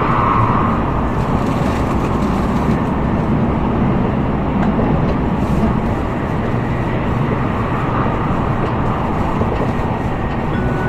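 Interior running noise of an N700A Tokaido Shinkansen at speed: a steady rush of rolling and wind noise heard inside the passenger cabin.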